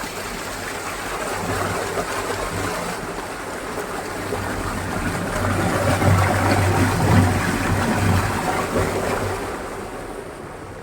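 Water rushing and splashing over a small dam, a steady noisy flow that grows louder past the middle and eases toward the end.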